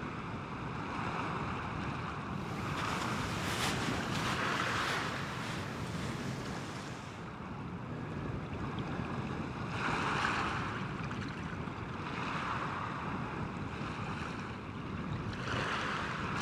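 Surf washing ashore, swelling and falling back every few seconds, over a steady rush of wind across the microphone.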